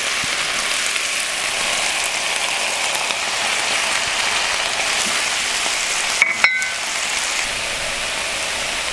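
Steady sizzling of stir-fry vegetables frying in a hot wok as raw eggs are poured in, with a brief clink about six seconds in.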